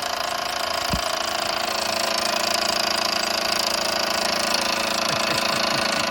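Mamod SE1 toy steam engine running fast under steam: a rapid, steady chuffing clatter over a hiss, with a low bump about a second in.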